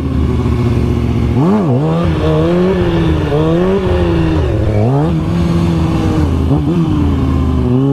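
Motorcycle engine revving hard as the rider pulls a wheelie, its pitch rising and dropping several times as the throttle opens and closes, then holding steadier near the end.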